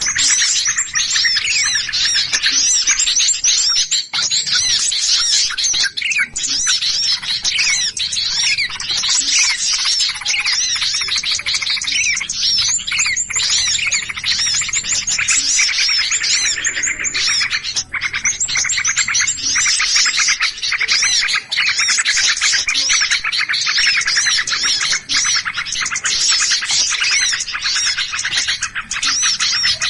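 A dense, unbroken chorus of many small birds chirping and chattering over one another in a noisy commotion. It is a bird-trapper's lure recording of 'ribut' (commotion) calls, used to draw other small birds in.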